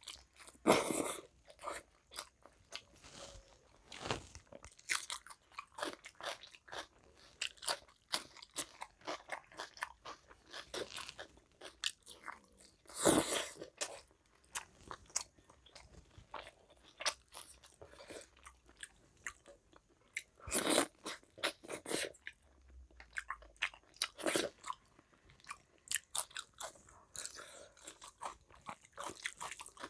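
Close-miked chewing and mouth sounds of a person eating rice and curry by hand: a steady run of short clicks and smacks, with a few louder ones scattered through.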